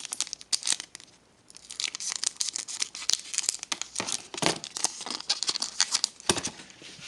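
Wrapper of a hockey card pack being torn open and crinkled: a dense run of crackles and tearing noises, with a short pause about a second in.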